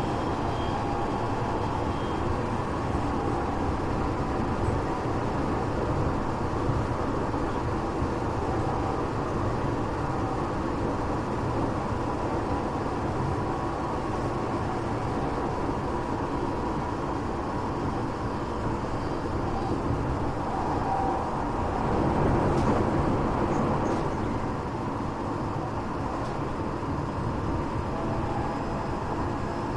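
Tokyo Metro 8000 series electric train running, heard from inside a passenger car: a steady rumble of wheels on rail with a faint motor hum. It grows louder for a couple of seconds about two-thirds of the way through.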